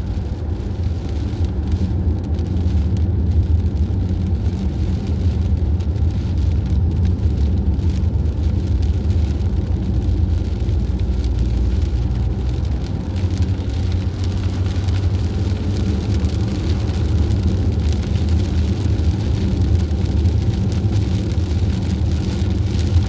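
Steady driving noise of a vehicle cruising on a highway: a constant low engine and road rumble with no change in pace.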